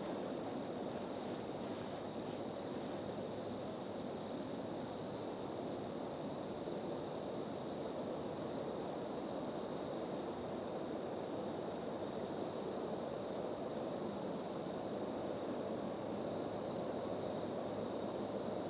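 Outdoor chorus of calling animals: a continuous high-pitched trilling drone with a fainter higher tone above it, over a steady low rush of background noise.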